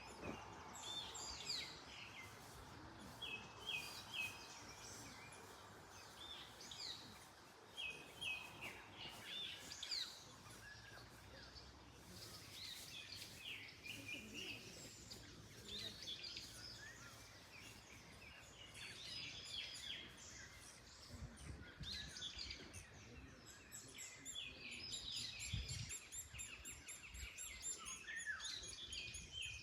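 Several wild birds chirping and singing in short overlapping calls and trills, over a soft rush of wind through trees that is strongest in the first third.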